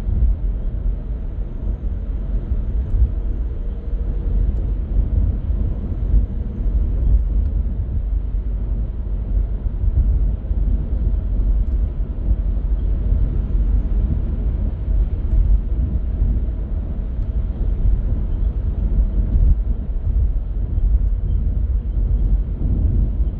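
A car being driven in city traffic: a steady deep rumble of engine and tyre noise with no sudden events.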